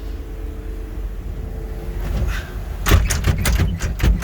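A quick series of sharp metal knocks and rattles starting about three seconds in, over a steady low rumble: the cab door and the loose, cracked sliding window of a Cat 325D L excavator being handled as someone climbs into the cab.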